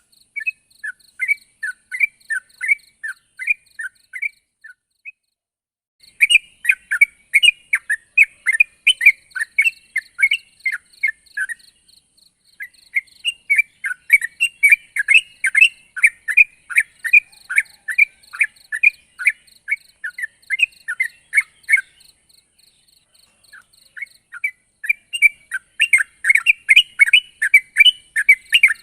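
Yellow-vented bulbul (trucuk) singing vigorously in rapid runs of short, falling, whistled notes, several a second, in bouts with brief pauses between them; this is the excited 'gacor' song used to call out a rival.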